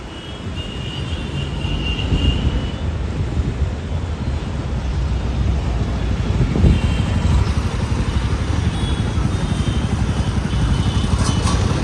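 A vehicle engine running close by, a steady low hum that grows louder over the first couple of seconds, with a brief louder moment about two-thirds of the way through.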